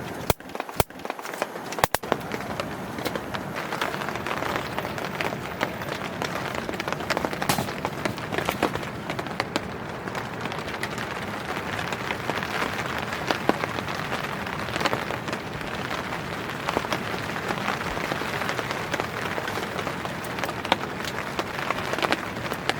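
Heavy rain falling steadily, an even hiss with scattered sharper drop hits, and a few sharp clicks in the first two seconds.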